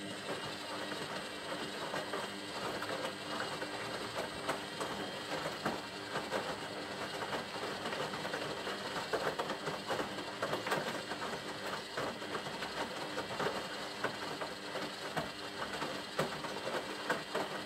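Beko WTB740E1W front-loading washing machine running its wash cycle: a steady, quiet hum with faint irregular clicks and swishes from the turning drum and wet load.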